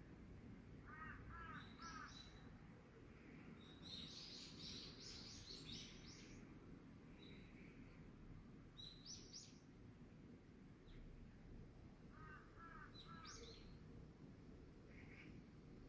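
Crows cawing in short runs of three, twice, with a small bird's quick high chirps in between, all faint over a low steady background hum of outdoor noise.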